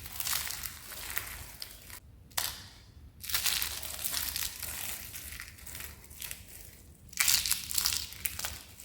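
Dry, crispy soap being crushed: a crackly crunching in bursts, with a short pause about two seconds in broken by a single crunch, and the loudest crunching near the end.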